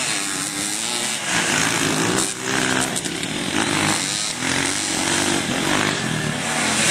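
Off-road motorcycle engines revving, their pitch rising and falling over and over as the throttle is worked.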